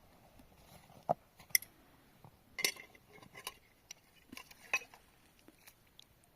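A handful of light, sharp clinks and knocks, irregularly spaced, like dishes or utensils being handled.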